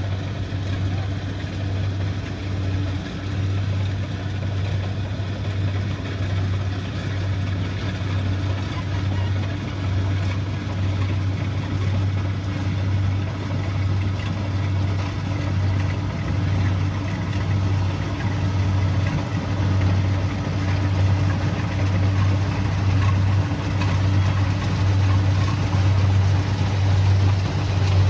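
Kubota DC70pro combine harvester's diesel engine running steadily, a low hum with an even pulse, getting a little louder near the end.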